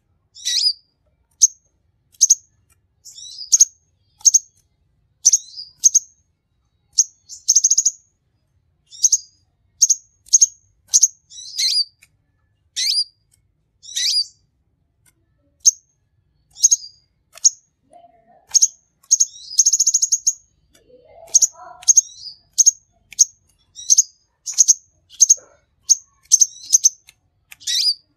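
Sunbird singing: a fast, unbroken run of short, high, sharp chirps, mixed with a couple of longer buzzy trills.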